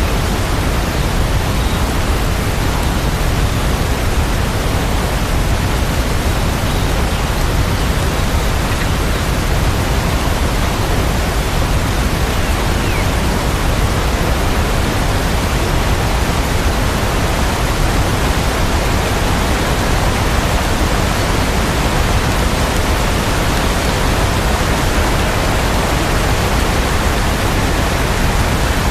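Steady rain sound, a dense, even hiss with no separate drops standing out.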